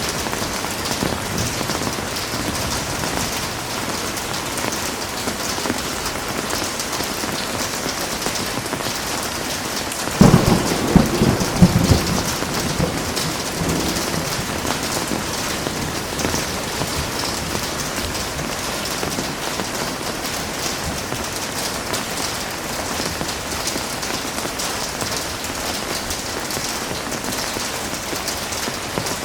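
Steady heavy rain. About ten seconds in, a clap of thunder breaks in with a few loud low cracks and rumbles over roughly two seconds.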